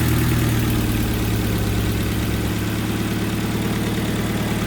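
Kia Sportage's freshly rebuilt G4KD 2.0-litre inline-four petrol engine idling just after its first start following the rebuild, settling from the start-up flare into an even idle.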